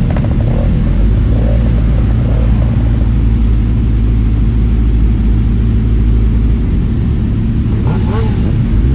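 Motorcycle engine running steadily under way, a loud, low, even drone.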